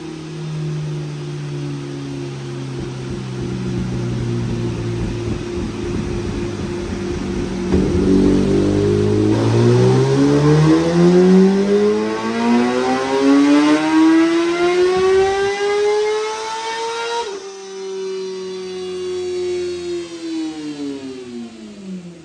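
Inline-four sportbike engine on a dyno making a full-throttle pull: after running steadily at low revs, it climbs smoothly in pitch to high revs for about nine seconds, cuts off sharply, then winds down as the revs fall.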